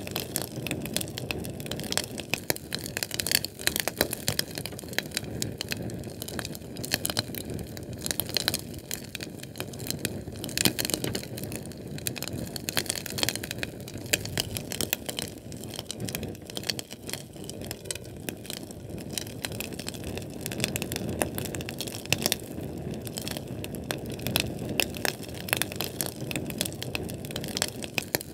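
Fire crackling and popping, with many sharp snaps over a low rushing burn.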